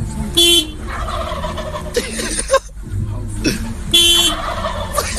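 A parrot making loud, harsh calls: two short piercing squawks about three and a half seconds apart, with rougher squawks between them.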